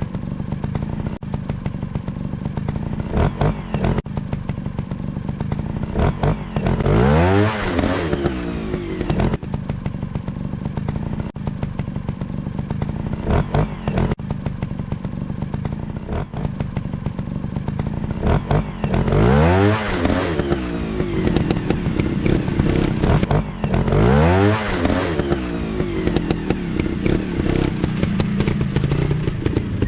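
Motocross dirt bike engines running steadily. The pitch sweeps up and back down four times as a bike is revved hard, with scattered clattering over the engine noise.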